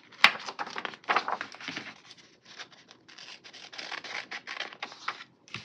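Paper sticker sheet being handled as a flower sticker is peeled off and placed: irregular rustling and crinkling, with a sharp tap about a quarter second in.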